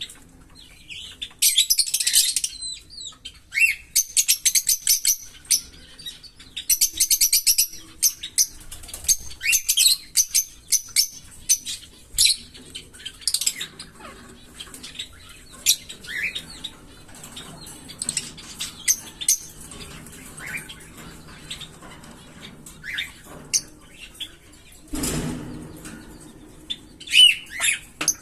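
Small pet parrots chirping and chattering: rapid bursts of high chirps and buzzy chatter, with a few short rising whistles. A brief rustling thump about three seconds before the end.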